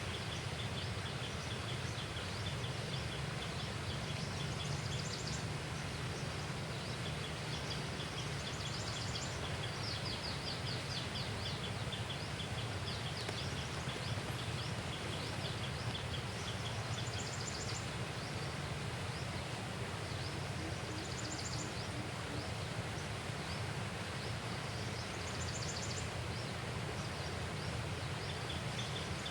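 Outdoor riverside ambience: a steady low rumble with bouts of rapid, high-pitched chirping trills every few seconds from small wildlife.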